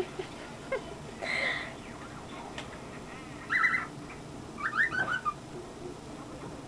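Cockatiel chirping in three short bursts: a rough chirp about a second in, a fast rattling chirp past three seconds, and a quick run of rising chirps near five seconds.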